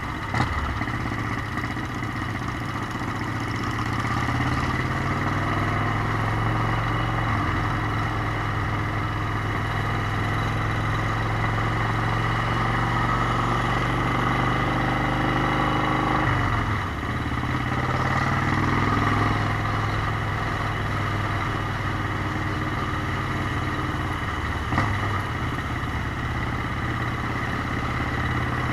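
Motorcycle engine running steadily while riding, its tone dropping briefly about two-thirds of the way through as the throttle eases and then picking up again. Two short sharp clicks, one just after the start and one near the end.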